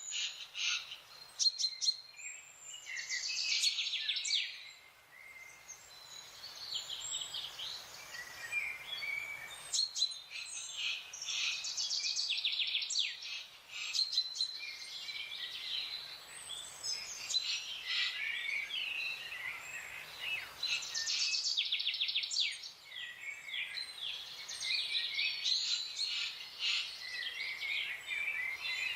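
Several wild birds singing and calling together, a busy mix of high chirps and rapid trills with short lulls.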